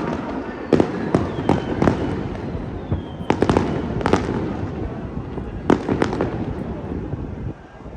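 Aerial fireworks shells bursting: a quick run of sharp bangs and crackles over a steady background din, thinning out near the end.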